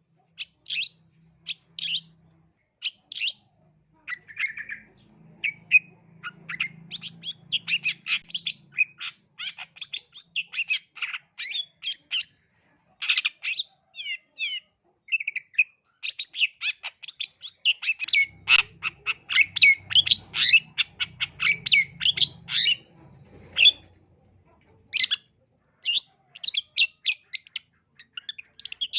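Long-tailed shrike (cendet) singing a fast, chattering song of short, sharp, harsh notes. A few separate notes open it, then dense rapid runs follow, broken by brief pauses.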